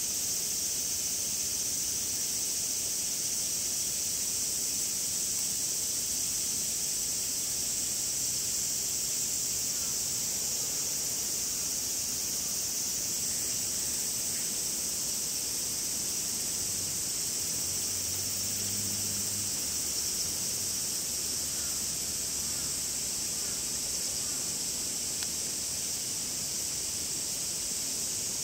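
Cicadas calling in a steady, continuous high-pitched drone.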